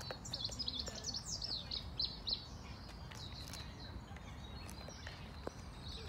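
Small birds chirping in quick, high twittering calls, busiest in the first two and a half seconds and sparser after, over a steady low background rumble.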